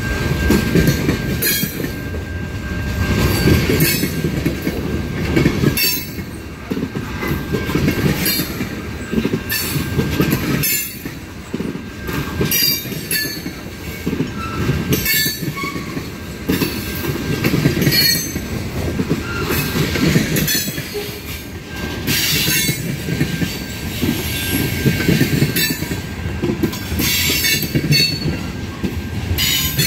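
Railway cars rolling past at a level crossing: a continuous low rumble, with sharp wheel clicks over the rail joints about once a second and a thin steady high whine from the wheels.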